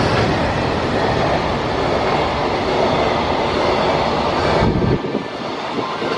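Freight train hauled by an EF210 electric locomotive passing through a station at speed: dense, steady rumble and rolling wheel noise. About five seconds in the low rumble falls away abruptly while the higher rolling noise carries on.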